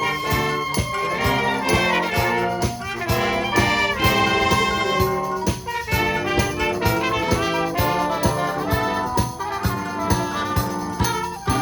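Youth wind band playing live: trumpets and trombones over woodwinds, with a steady beat from drums and jingle bells.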